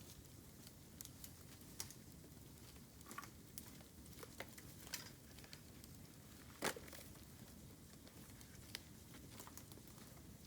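Bamboo burning in an open campfire: faint, irregular crackles and ticks, with one sharper, louder crack a little past the middle.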